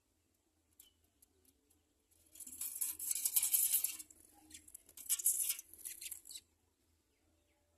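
Scratchy rustling and clicking in two bursts, starting about two and five seconds in, over a faint low hum.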